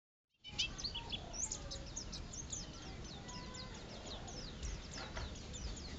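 White-eye (pleci) singing vigorously: a fast, unbroken stream of high, downward-sweeping chirps, starting about half a second in.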